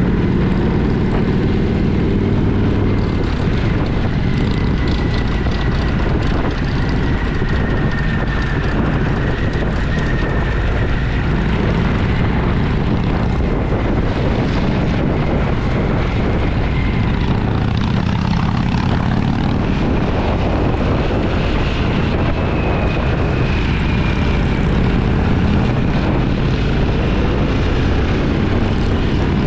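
Motorcycle engine running steadily under way, with wind noise, its pitch drifting slightly with speed and rising briefly in the second half.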